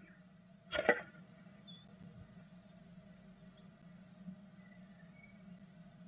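Great tit at its nest: a brief, loud scratching rustle about a second in, then a few faint, short, high-pitched peeps, over a steady low hum.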